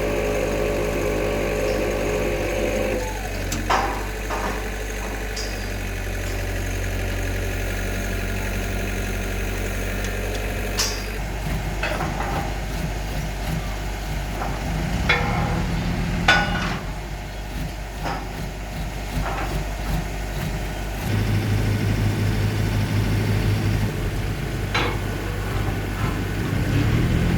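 Engine of a concrete pile-pressing rig running steadily, its pitch and load shifting a few times, with scattered sharp metallic clanks.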